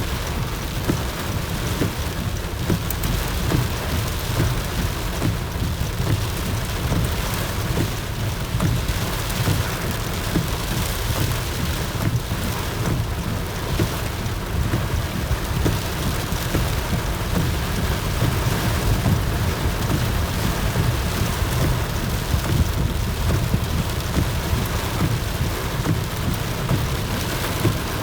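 Heavy thunderstorm rain falling steadily, with a constant deep rumble underneath and no single thunderclap standing out.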